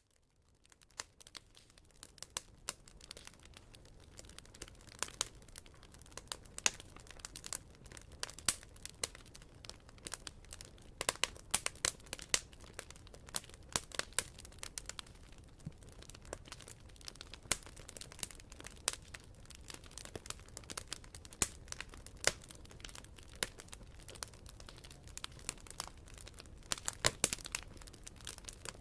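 Wood campfire crackling: irregular sharp snaps and pops over a low steady rumble of the burning fire, fading in over the first couple of seconds.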